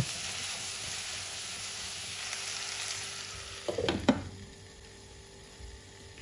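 Zucchini cubes sizzling as they fry in oil in a pot and are stirred. About four seconds in, a glass pot lid clatters onto the pot, and the sizzling then goes on quieter and muffled under the lid.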